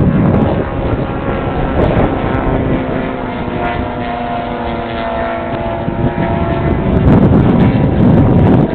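Radio-controlled aerobatic airplane's engine running in flight, its tone shifting as it works through the maneuver, with heavy wind buffeting on the microphone that grows louder near the end.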